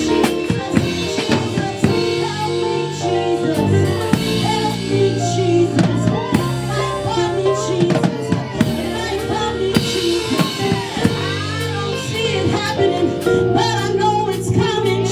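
Live gospel band music: a drum kit with snare and bass drum playing a steady beat under long held chords.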